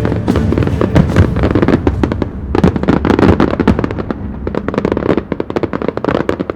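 A fireworks barrage: many rapid, loud bangs and crackles of shells bursting one after another, stopping abruptly near the end.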